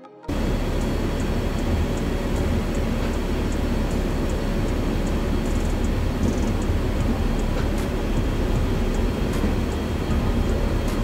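Steady rumble and rattle of a moving train heard from inside its cab, with a few faint clicks now and then. The sound starts abruptly a moment in.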